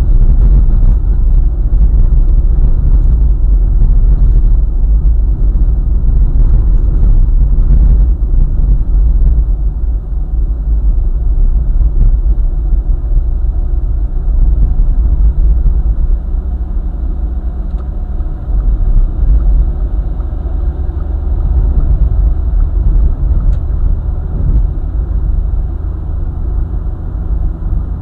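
Car driving along a highway: a loud, steady low rumble of road and engine noise, easing off slightly about ten seconds in.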